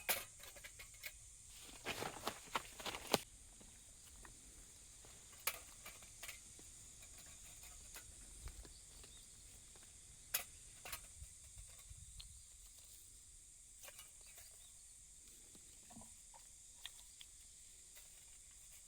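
Scattered light clicks and knocks, a quick cluster of them about two to three seconds in, over a steady high hiss.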